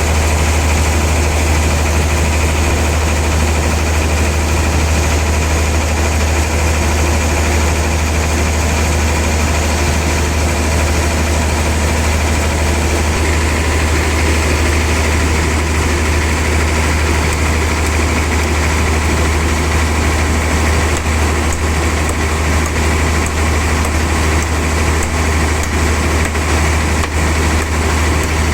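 Sawmill saw machinery running steadily, a constant engine-like drone with a strong low hum.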